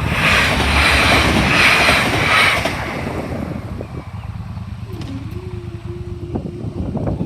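Passenger train passing over the level crossing at speed: a loud rush and rumble with pulsing peaks for the first few seconds, then dying down to a lower rumble with sharp clicks of wheels on the rails near the end.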